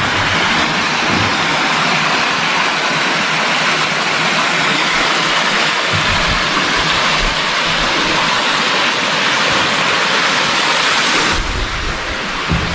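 Loud, steady rush of falling water in a mountain stream gorge. Near the end it drops away abruptly and a low wind rumble on the microphone comes in.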